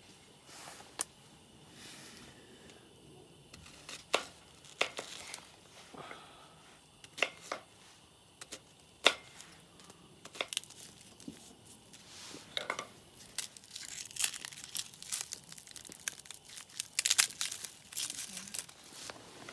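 Crinkling and rustling handling noise with scattered sharp clicks and knocks, turning into a long stretch of dense crinkling near the end.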